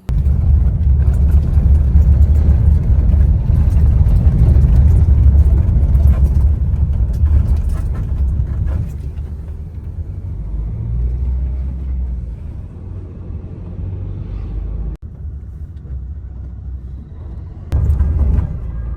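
Loud, steady low rumble of road traffic in a city street, heaviest in the first half and easing off after that.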